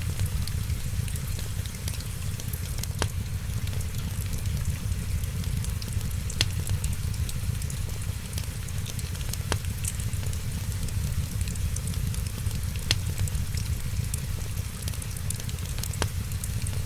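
Wood fire crackling in a fireplace: a steady low rumble with a constant patter of small ticks, and a sharper pop about every three seconds, five in all, evenly spaced.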